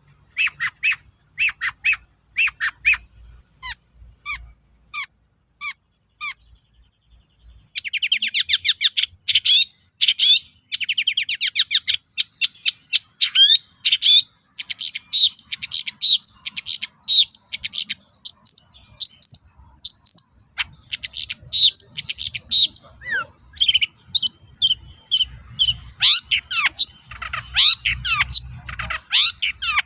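Long-tailed shrike (cendet) singing. It gives a string of short, separate sharp notes, pauses for about a second around six seconds in, then breaks into a fast trill. A dense, varied song of mixed calls follows, the kind of song full of mimicked calls that keepers prize in a cendet.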